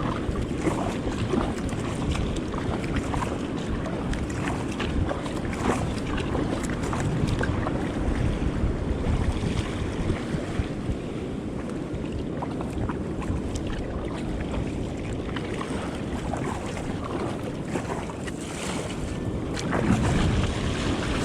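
Surf and churning water washing around a fishing kayak in the shore break, with wind buffeting the microphone. The water surges louder near the end.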